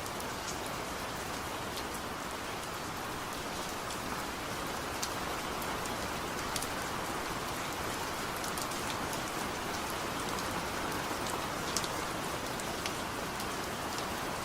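Steady rain falling, an even hiss with individual drops ticking sharply on a hard surface now and then. No thunder.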